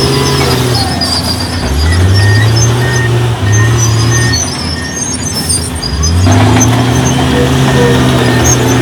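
Diesel engine of heavy construction machinery running under load. It revs up twice, about two seconds in and again about six seconds in, then holds at high revs, with faint high squeaks over it.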